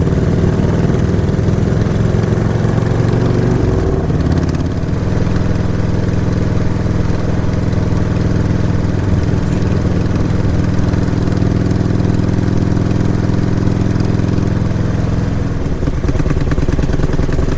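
Motorcycle engine running steadily, its pitch shifting about four seconds in and again near the end.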